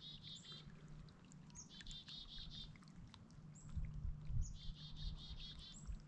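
A small bird calling about three times, each call a short high note followed by a quick run of repeated, slightly lower notes, with a few soft low thumps near the middle.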